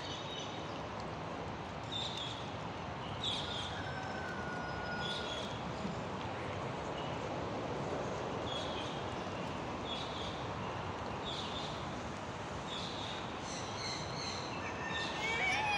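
Outdoor pond-side ambience: a steady rushing background noise with a small bird chirping short, high notes about once every second or so.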